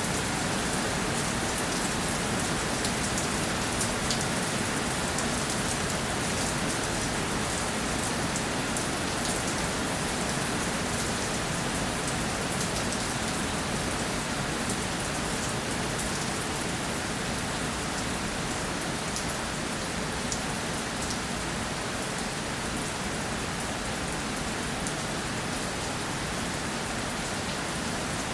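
Steady rainfall with individual drops pattering on a surface, the fine ticks of separate drops heard over a constant hiss.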